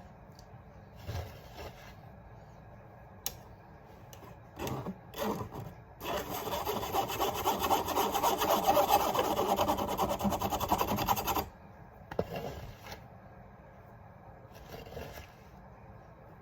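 A mesh kitchen sieve being worked over dry baking ingredients: a loud, rasping, scraping sound that starts about six seconds in and stops abruptly about five seconds later. A few light knocks and handling sounds come before and after it.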